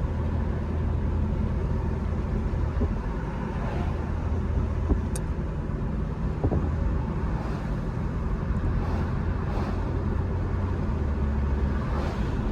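BMW M3 Competition's twin-turbo inline-six running at a steady pitch while driving, with tyre and road noise, heard from inside the cabin.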